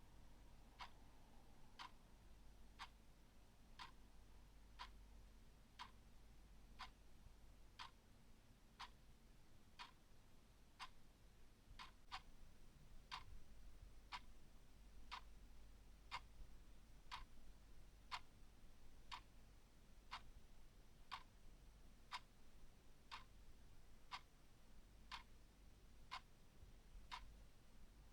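A clock ticking faintly and evenly, about one tick a second.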